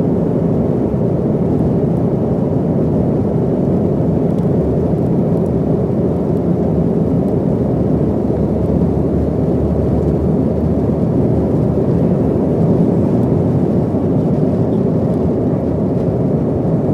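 Steady, loud drone of a passenger airliner's cabin in flight: engine and air noise, deep and unchanging.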